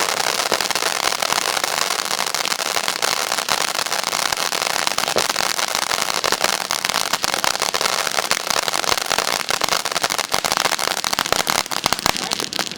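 Fireworks crackling: a dense, continuous rattle of rapid small pops that thins out right at the end.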